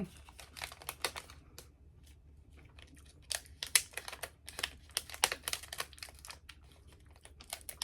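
Close-up crunching of a tiny chocolate-filled cone snack being chewed: irregular crisp clicks and crackles.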